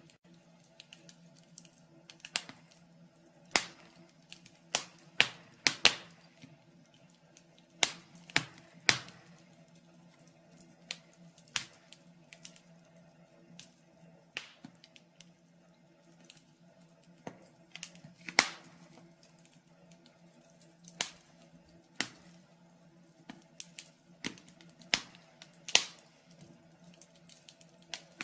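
Wood fire in a fireplace crackling, with irregular sharp pops and snaps, some singly and some in quick clusters, over a faint steady hum.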